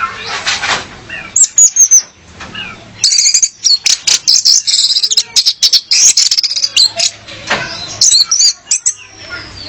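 Female orange-headed thrush calling: spells of rapid, high, squeaky notes mixed with sharp clicks. The calling is densest through the middle and comes again near the end.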